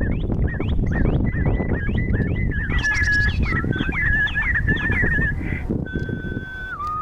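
Many small birds chirping at once, short quick notes over one another. Near the end a long, nearly steady whistle that dips slightly in pitch.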